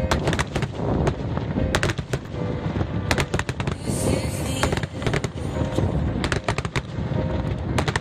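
Aerial fireworks bursting in quick succession, a dense run of sharp bangs and crackles over a continuous low rumble.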